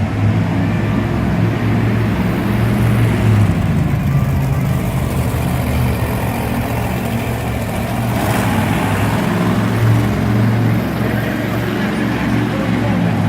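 Monster truck engine running loud, its revs rising and falling as the truck is driven on the track.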